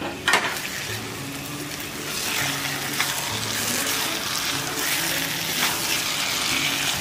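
Raw chicken pieces sizzling in hot oil and tomato masala in a wok, stirred with a silicone spatula; a light knock at the start, and the sizzle gets a little louder about two seconds in.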